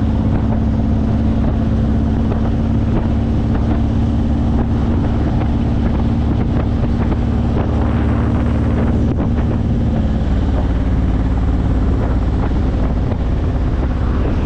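Honda VTX1800's 1800cc V-twin running through aftermarket Vance & Hines exhaust pipes while riding, with wind buffeting the microphone. The engine note holds steady, then shifts about ten seconds in.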